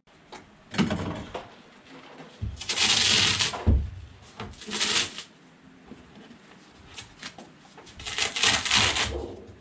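Clattering and scraping of refrigerator sheet-metal panels being worked loose and handled: a knock about a second in, then long rasping scrapes around three, five, and eight to nine seconds in.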